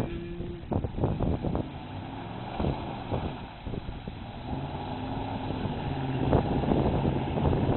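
Dodge Dakota 4x4 pickup's engine running under load while driving through a mud hole, its pitch climbing and holding in the second half. Several sharp thumps break in during the first second and a half, again near the middle, and once more late on.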